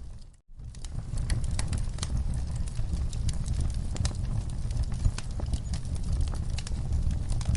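Wood fire burning in a fireplace: a steady low rumble of flames with scattered sharp crackles and pops of burning logs. The sound briefly drops out about half a second in, then returns.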